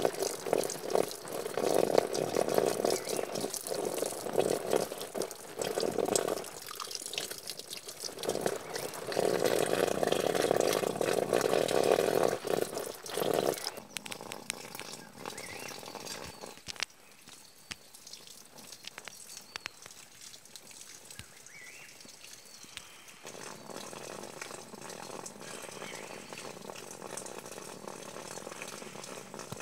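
Running water, coming in two louder spells that stop and start in the first half, then quieter with a weaker spell near the end.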